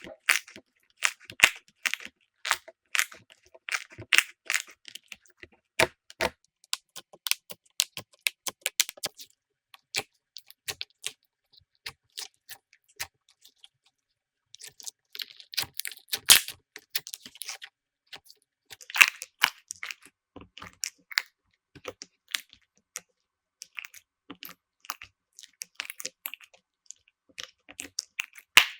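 Slime being squeezed and poked by hand, making irregular crackling and popping clicks, sparser for a few seconds in the middle.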